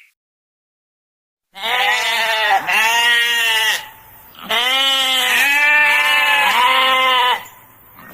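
Goat bleating: five drawn-out calls in quick succession, each rising and then falling in pitch. They start after about a second and a half of silence.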